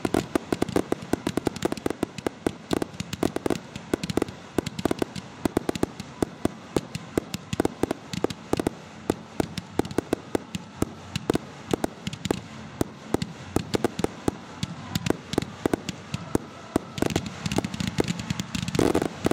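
Aerial fireworks display: a rapid, continuous barrage of shell launches and bursts, several sharp bangs a second.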